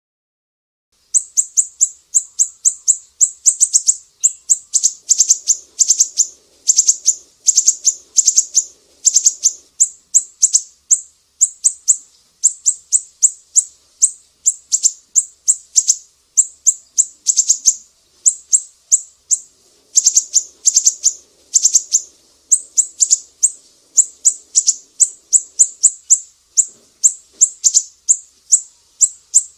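A siri-siri songbird singing: long runs of rapid, sharp, high-pitched chirps, several a second, starting about a second in and broken by short pauses.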